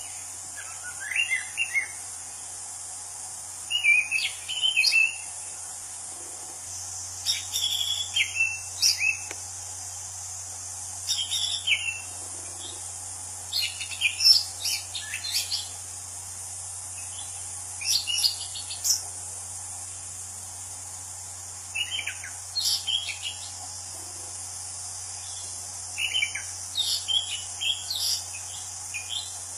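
Anis Cendana (orange-banded thrush) singing short, varied whistled phrases every few seconds, over a steady high insect chorus.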